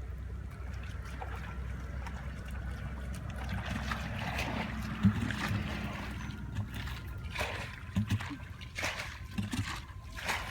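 Shallow water sloshing and splashing in short bursts, more often in the second half, over a steady low rumble.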